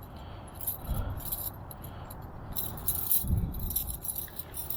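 Small metal gear clinking and jangling as it is handled, with a few dull knocks.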